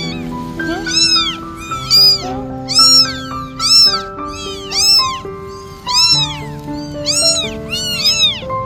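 Newborn kittens meowing again and again in short, high cries that rise and fall in pitch, about one or two a second, over background music.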